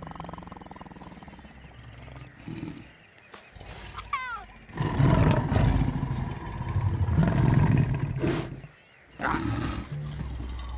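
Lions growling and snarling, loud and rough for several seconds from about the middle, broken by a brief pause near the end, with a short high falling call just before the growling starts.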